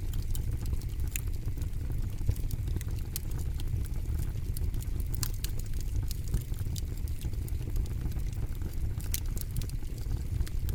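Wood campfire burning: frequent, irregular sharp crackles and pops over a steady low rumble.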